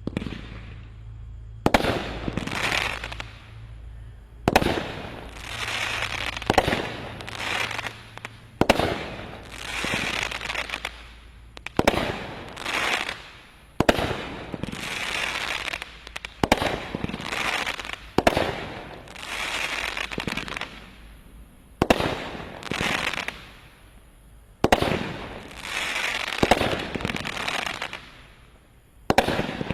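Consumer 16-shot finale repeater cake firing, from the Brothers 'All Star Action' assortment. It fires shot after shot, one every two seconds or so, each sharp launch followed by about a second of bursting and crackle.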